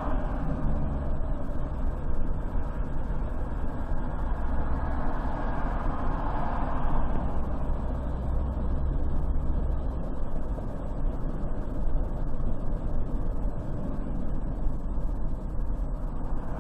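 A car driving on a highway: steady road, tyre and engine noise, swelling for a couple of seconds about five seconds in.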